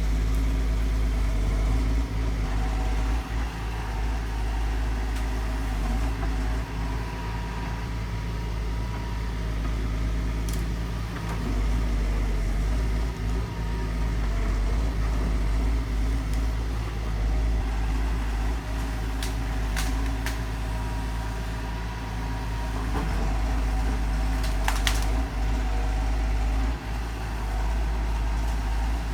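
Heavy excavator's diesel engine running steadily, with a few brief sharp knocks along the way.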